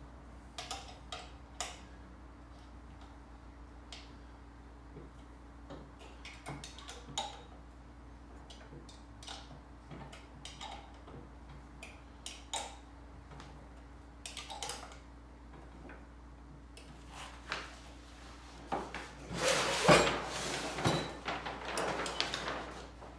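Scattered metal clicks and clinks of an Allen key and mounting screws being worked as a portable bandsaw is snugged down onto its stand, with a denser, louder stretch of rattling and knocking near the end. A low steady hum runs underneath.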